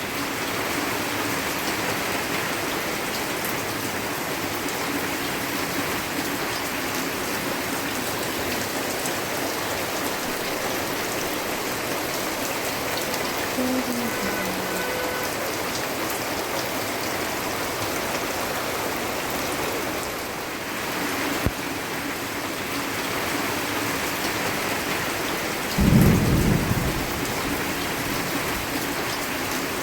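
Steady rain falling, with one short, loud rumble of thunder near the end.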